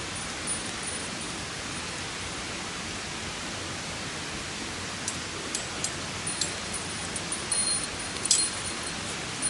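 Steady hiss of background noise, with light high tinkling, chime-like notes coming in about halfway and growing more frequent.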